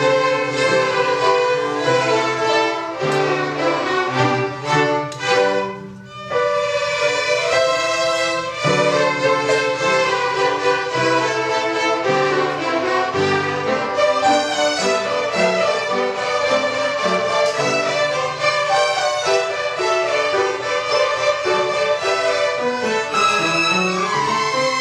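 Violin music: a bowed melody of quickly changing notes over lower held notes, with a brief break about six seconds in.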